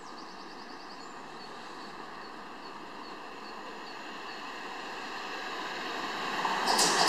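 Modern electric passenger train approaching along the track at speed, its running noise growing steadily louder and rising sharply near the end as it nears the platform. Faint bird chirps in the first couple of seconds.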